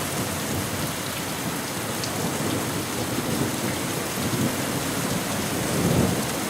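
Heavy rain falling steadily in a thunderstorm, with a low rumble swelling near the end.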